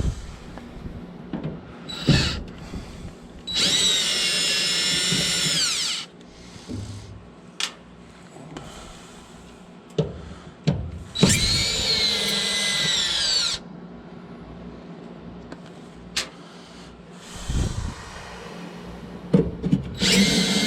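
Power drill-driver spinning in long bursts of a few seconds, twice and again near the end, rising in pitch as it starts and falling as it stops, backing out screws that hold a furnace's vent motor assembly. Sharp clicks and knocks sound between the bursts.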